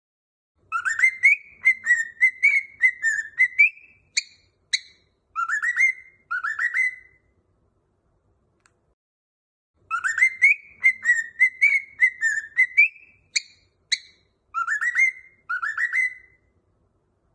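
A whistled tune for teaching a cockatiel to sing: a phrase of quick, mostly upward-sliding notes with two short high chirps in the middle. The phrase starts just under a second in and is repeated note for note after a pause of about three seconds.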